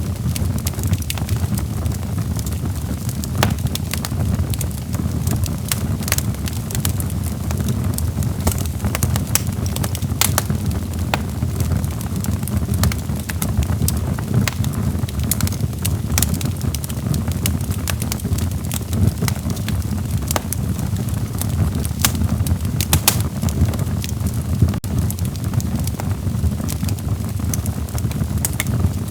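Logs burning in a fireplace: a steady low rumble of flames with scattered sharp crackles and pops throughout.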